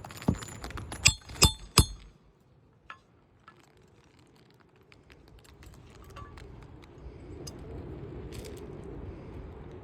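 Hammer driving roofing nails into asphalt shingles: four sharp metallic strikes in quick succession in the first two seconds, then a few faint taps.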